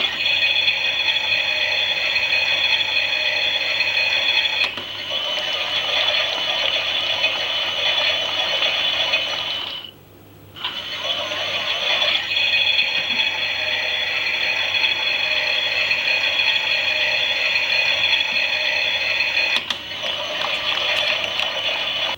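Small motor and plastic gears of a Klein Miele toy washing machine turning the drum, a steady whine of several high tones. It stops for about half a second around ten seconds in, then starts again.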